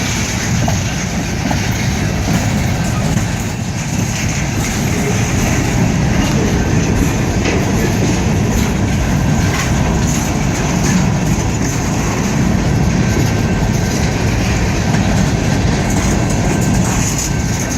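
Freight train rolling past, with a steady rumble and rail noise from its cars on the track.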